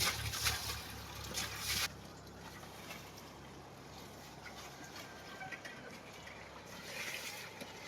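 Water spraying and splashing on a tractor as it is washed, over a low steady hum; both stop about two seconds in, leaving faint trickling and dripping.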